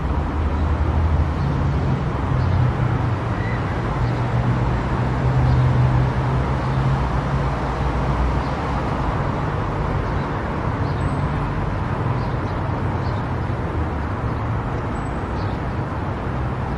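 Car driving at highway speed: steady road and tyre noise with a low drone.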